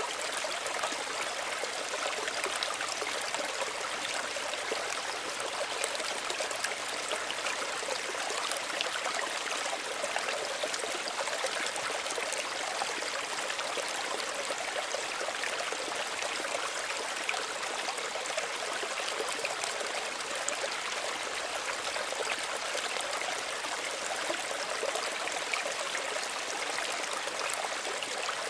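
A small stream running and trickling steadily over stones, an even rushing hiss with many fine splashes.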